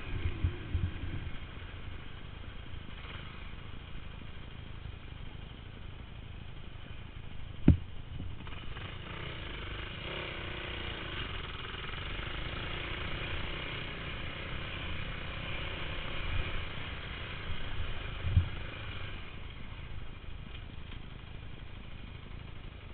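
Motocross bike engines running steadily, with a sharp knock about eight seconds in and a few duller thumps.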